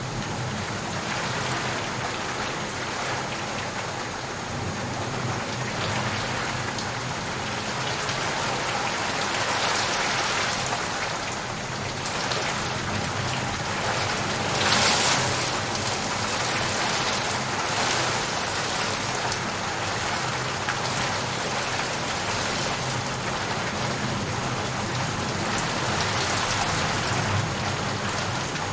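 Steady rainfall, a continuous even hiss of falling rain that briefly swells louder about halfway through.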